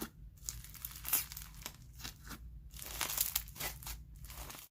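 Crunchy slime with bingsu beads being squished and stretched by hand: a run of irregular crackles and pops that cuts off suddenly at the end.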